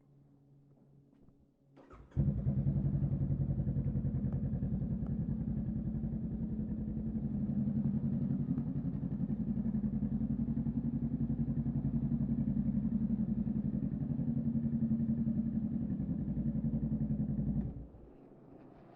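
Honda Rebel 500 parallel-twin motorcycle engine through a Vance and Hines upsweep exhaust, starting suddenly about two seconds in, idling steadily for about fifteen seconds, then switched off abruptly near the end.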